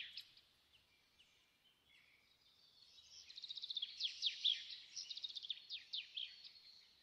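A songbird singing. A phrase ends right at the start, a few faint notes follow, and then a second phrase of fast trilled notes and quick falling whistles swells from about two and a half seconds in and fades out near the end.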